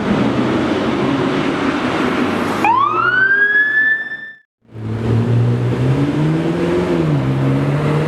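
Street traffic sounds joined by hard cuts. First a car engine runs steadily. About three seconds in, a siren-like tone rises sharply and holds a high pitch for over a second. After a brief cut, another car engine runs, its note rising and then dropping near the end.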